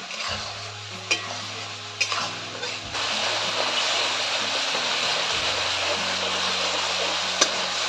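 Onion, garlic and spice masala frying in oil in a metal karahi, stirred and scraped with a metal spatula that clinks sharply against the pan a few times. About three seconds in, the sizzle grows suddenly louder and then holds steady.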